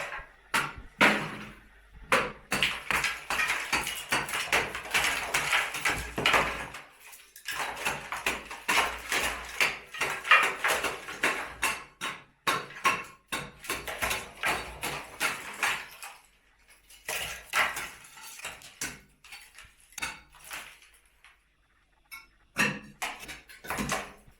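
Demolition debris from a broken-down brick wall clattering and scraping, with many irregular sharp knocks of brick and rubble. The knocks pause briefly twice.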